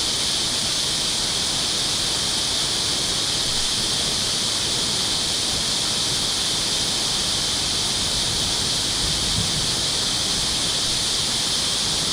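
Water rushing steadily as it flows through a dam outlet.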